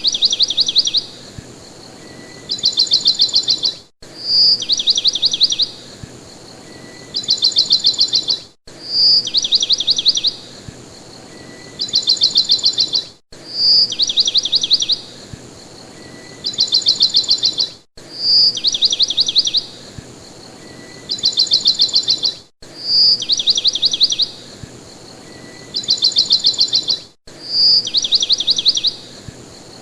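Birdsong looped as a background track: a short high note and then two quick trills of rapid chirps, the same phrase repeating every four to five seconds with a brief cut at each repeat.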